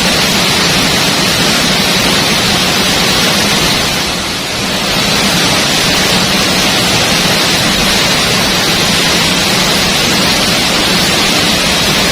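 Waterfall: a loud, steady rush of falling water, unbroken, easing slightly for a moment about four seconds in.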